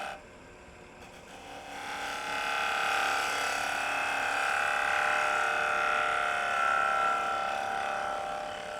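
Wood lathe running while a bowl gouge cuts across the face of a spinning block of softwood construction lumber to flatten it: a steady hum with a light cutting hiss. It is quieter for the first second or so, then picks up and holds steady.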